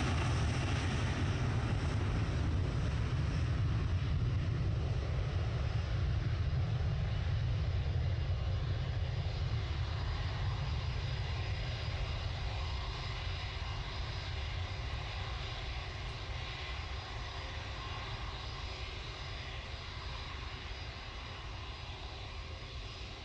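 Airliner engines rumbling at takeoff power as the aircraft departs the runway, the deep roar fading slowly as it climbs away.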